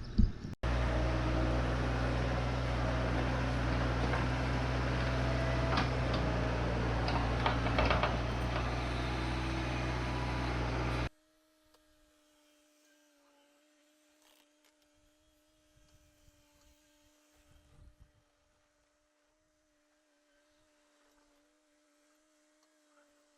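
Diesel engine of heavy earthmoving equipment running steadily; it cuts off abruptly about eleven seconds in. After that, near silence with only a faint steady hum.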